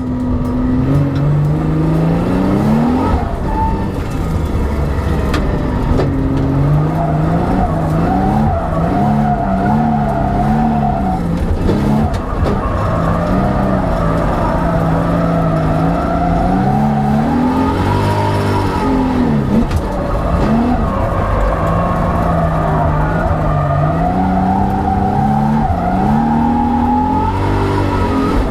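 1,390 bhp 4-litre Nissan GT-R drift car engine at high revs, its pitch rising and falling over and over as the car is held sideways, with the rear tyres skidding and squealing in constant wheel spin.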